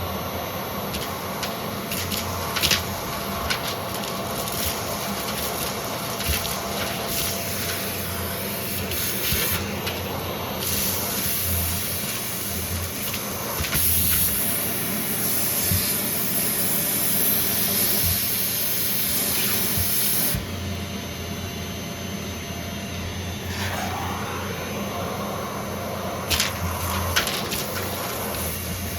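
Vacuum cleaner running and sucking up crunchy debris, with many small crackles and clicks over the motor's steady hum. A louder hiss of rushing air comes in about ten seconds in and drops away about ten seconds later.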